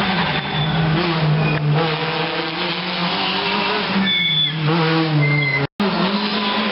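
Rally car engine revving hard as the car approaches and takes a corner, its pitch rising and falling with the throttle and gear changes. The sound cuts out for a moment near the end.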